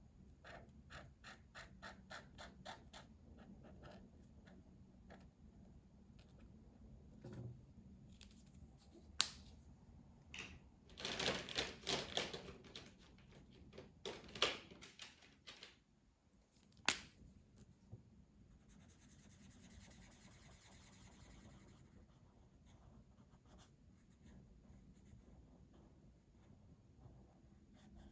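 Coloring strokes scratching on paper: a quick even run of short strokes, about four a second, at the start, then softer, steadier shading. A sharp click sounds twice, about 9 and 17 seconds in, and a louder patch of scratching falls between them.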